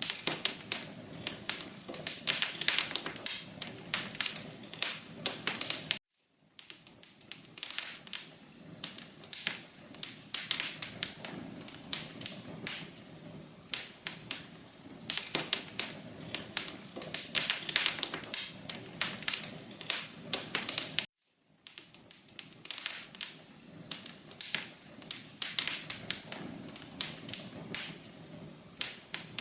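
Wood fire crackling in a fireplace: a steady stream of irregular sharp pops and snaps over a soft low hiss. It cuts out completely for a moment twice.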